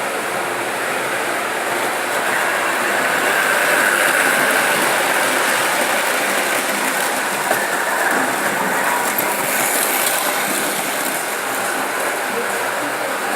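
Märklin model train running on its track: the steady mechanical whirr of its small motor and gearing together with the wheels on the rails.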